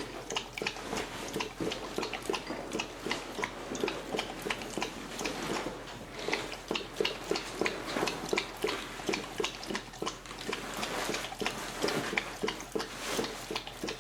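A car seat cover being handled and turned inside out: irregular rustling and crinkling of the material, several small crackles a second.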